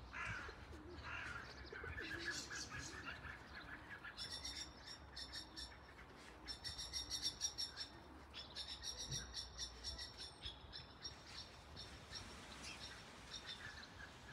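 Garden birds chirping and tweeting: a few lower calls at first, then from about four seconds in, quick runs of high, thin repeated chirps in phrases of a second or two, coming on and off.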